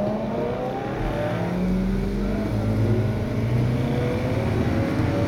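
A 2012 Mini Cooper S's turbocharged 1.6-litre four-cylinder engine, heard from inside the cabin, pulling away gently at low speed. Its note rises slowly, steps down about halfway through as it shifts up, then climbs again.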